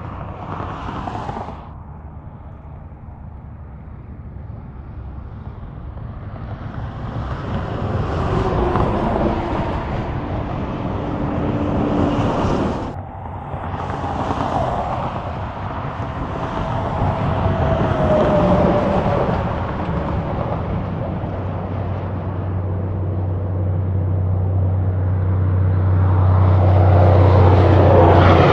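Highway traffic passing close by, including big-rig trucks: vehicles swell in and fade away, with a sudden break about halfway through. Near the end a heavy truck approaches with a deep engine drone that grows steadily louder.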